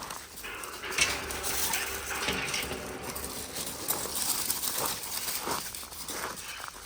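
Continuous rustling and scuffling with many small clicks and knocks, loudest about a second in.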